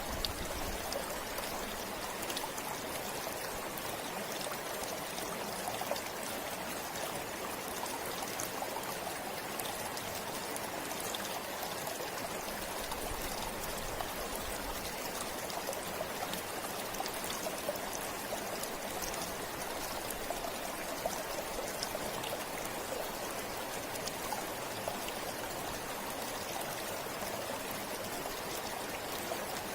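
River water flowing steadily over stones, a continuous rushing with small splashes and trickles through it.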